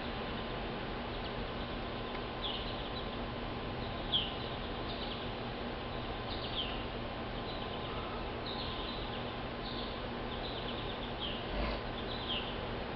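Birds chirping in short, high, downward-slurred notes, roughly one a second, over a steady low hum. A soft thump near the end.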